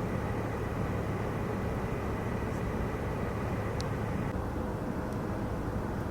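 Steady low rumble of vehicle traffic, with a faint thin high tone that stops about four seconds in.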